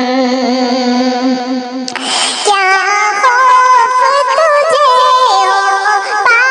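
A tarana being sung: one long held note, a short hiss about two seconds in, then a new sung line with a wavering, ornamented melody.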